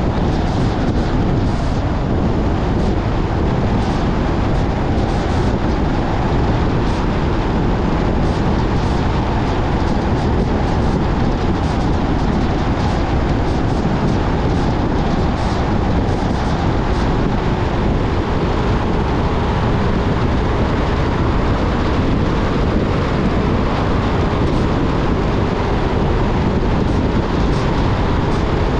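Steady road and wind noise of a car driving at an even speed, with faint scattered ticks.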